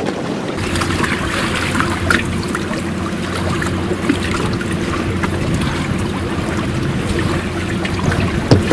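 Water splashing and trickling along the hull of a small trimaran under way, over a steady low hum, with scattered small crackles and one sharp knock near the end.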